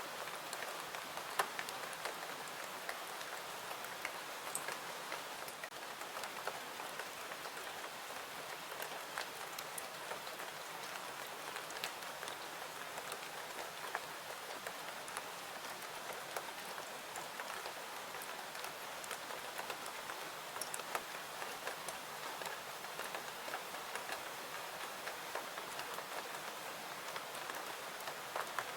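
Steady rain falling, an even hiss with scattered sharp ticks of drops or small pops all through.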